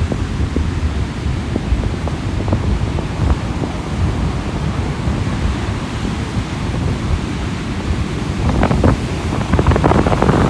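Sea surf washing onto the beach, with wind buffeting the microphone in a low rumble. A wave surges in louder near the end.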